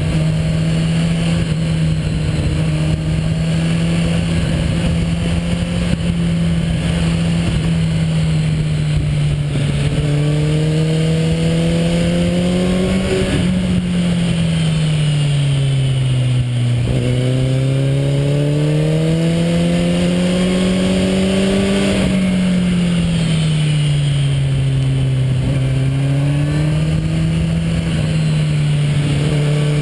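Motorcycle engine running at steady road speed, its pitch rising and falling gently as the throttle is eased and opened: it drops to a low point about 16 seconds in and again about 25 seconds in, then climbs again. Wind and road noise run underneath.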